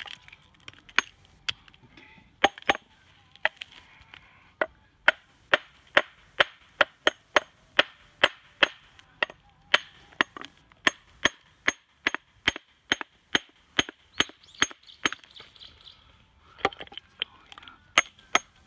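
Hammer repeatedly striking a rough Japanese natural whetstone (Kyoto su-ita): sharp, ringing clinks, about two to three a second, with a short pause near the end. The craftsman is tap-testing the stone by ear and knocking it apart where its layers are weakest, the secondary dressing of the stone.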